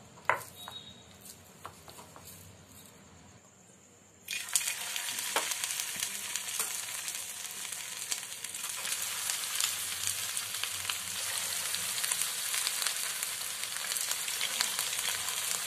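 Marinated chicken pieces slipped one at a time into hot oil in a frying pan. After a few light clicks, a loud crackling sizzle starts suddenly about four seconds in and carries on steadily as more pieces go in.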